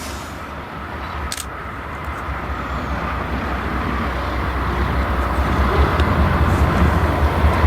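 Diesel-hauled train approaching: a low rumble growing steadily louder.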